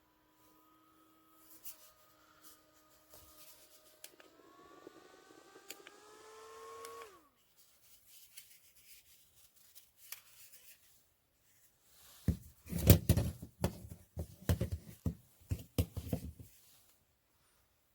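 Small electric motor of a handheld fan whining with a few steady tones, rising in pitch from about four seconds in and then winding down sharply near seven seconds. After that, a run of loud knocks and clatter from handling lasts several seconds.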